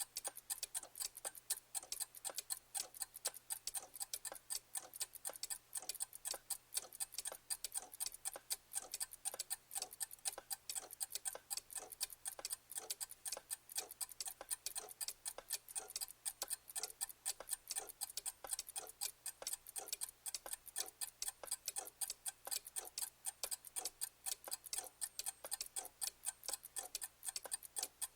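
Clock ticking steadily: a fast, even run of sharp ticks, several a second.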